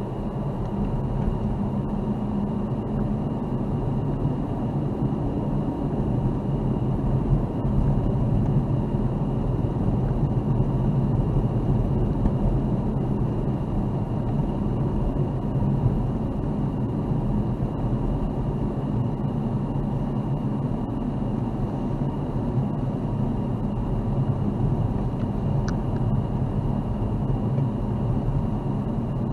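A car driving on snowy winter streets: a steady rumble of engine and tyre noise, building over the first second or two, then holding even.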